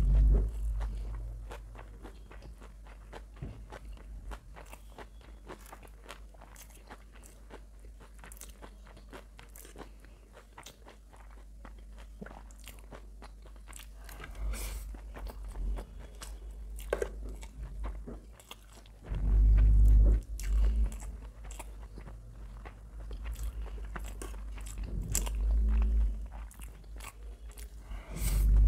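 Close-miked eating of chow mein noodles: chewing with many small wet mouth clicks, and a few louder low thuds in the second half.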